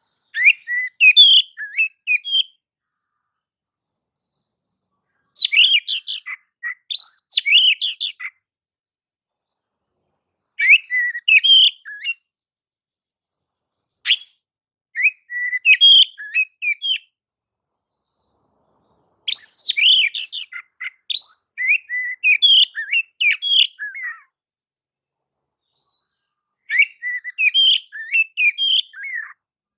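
Oriental magpie-robin (kacer) singing clear, varied whistled phrases and quick note runs. The song comes in about seven bouts of one to five seconds each, with pauses of a couple of seconds between them.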